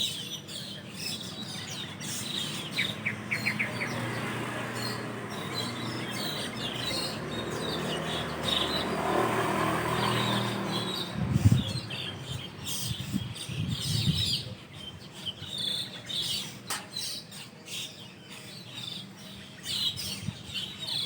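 A flock of Asian glossy starlings (perling) calls from a roost tree: many short, overlapping chirps and tweets. A broad rushing noise swells and fades midway, and a few low thumps follow, the loudest about halfway through.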